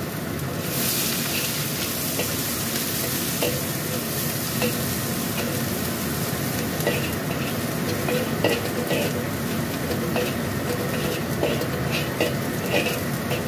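Chopped shallots and garlic sizzling steadily in hot oil in a black wok, with a metal spatula scraping and stirring against the wok in irregular strokes. The aromatics are being sautéed until fragrant.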